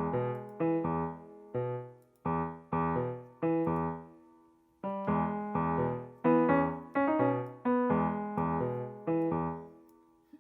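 Background piano music: gentle chords and notes, each struck and left to fade, with a short pause partway through.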